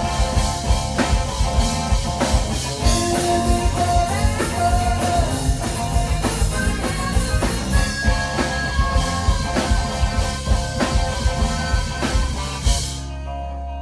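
Live rock band playing, with a drum kit and electric guitar. Near the end the drums and cymbals stop suddenly, leaving guitar notes ringing.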